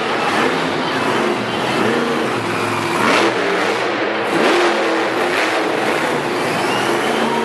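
Monster truck engine revving hard, its pitch surging up and falling away several times.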